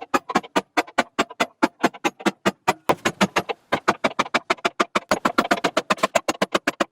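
Rapid, evenly spaced hammer blows on metal, about seven a second and quicker in the second half, knocking at the seized handle of the workbench's brake lever to drive it out.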